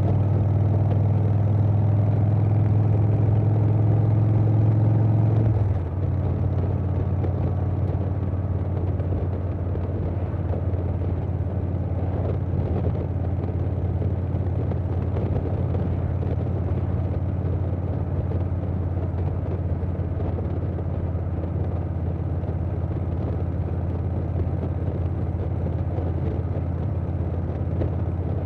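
Harley-Davidson Softail Standard's Milwaukee-Eight 107 V-twin running through a Vance & Hines Big Radius 2-into-2 exhaust while riding, with wind noise. Under throttle at first, then about six seconds in the note drops suddenly to a softer, steady drone as the throttle eases off.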